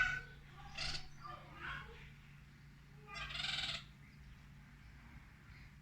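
Birds calling: a few short calls in the first two seconds, then a longer, louder call about three seconds in. A faint steady low hum runs underneath.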